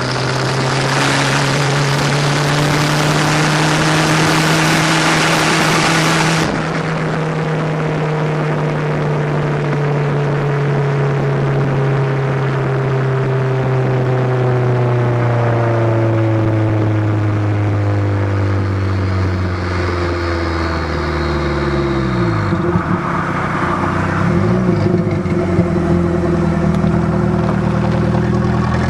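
Exhaust of a turbocharged Dodge Aries on the move, heard from under the rear of the car, with a loud rushing hiss over the engine note. The hiss cuts off about six seconds in, and the engine note then falls slowly. Near the end the engine note dips sharply and climbs again.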